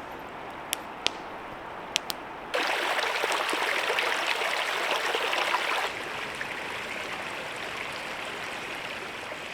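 Creek water flowing in an even rush. It begins abruptly about two and a half seconds in, is loudest for about three seconds, then goes on at a lower, steady level. A few sharp clicks come before it.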